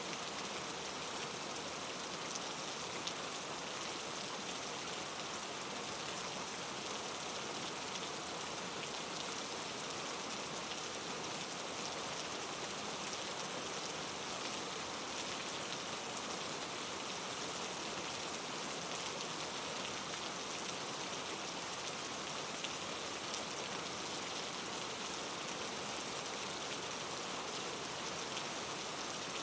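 Steady rain pattering on a surface: a dense, even hiss flecked with fine drop ticks.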